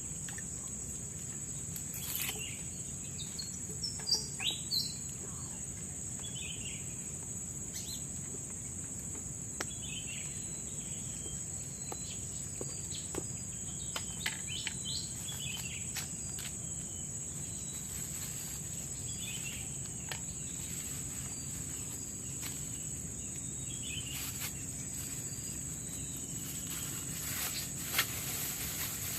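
Tropical forest ambience: a steady high-pitched insect drone runs throughout, with scattered short bird chirps and a few sharp clicks over it.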